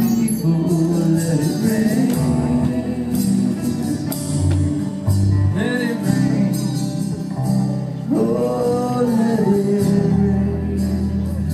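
Live worship band playing a song, with a male voice singing over guitar, keyboard and drums.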